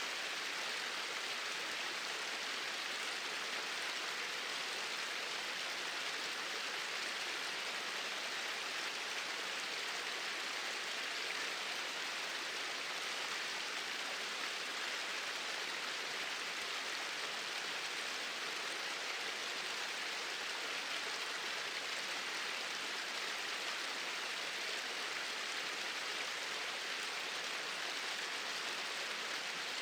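Small waterfall with water pouring steadily, an even rushing hiss with no change throughout.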